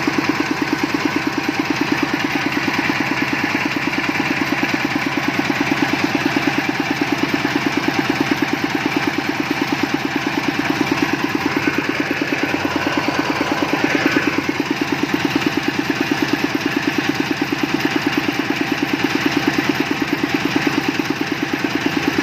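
Engine of a water-well drilling rig running steadily at a constant speed, with a quick, even pulse.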